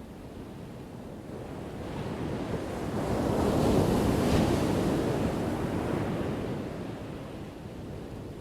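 A single ocean wave crashing: the rush of surf builds, peaks about four seconds in, then fades away.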